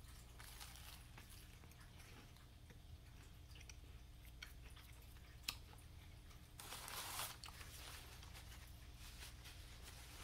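A person biting into and quietly chewing a slice of buttered toast spread with Vegemite, with faint crunches and mouth clicks. There is one sharper click about five and a half seconds in and a brief rush of noise about a second later.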